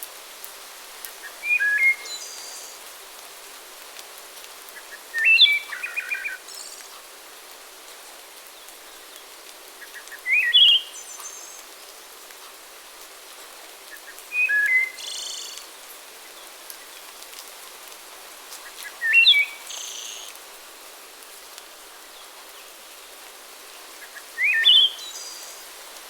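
A songbird singing a short, quick phrase of a few rising and falling notes, six times at intervals of about four to five seconds, over a steady hiss.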